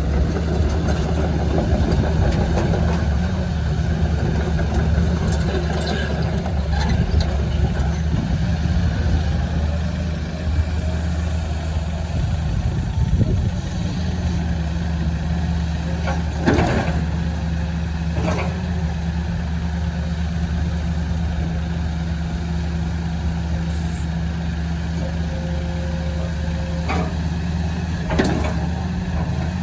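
Diesel engine of a Tata-Hitachi ZAXIS 220LC-G1 hydraulic excavator idling steadily, with a few brief knocks or clicks.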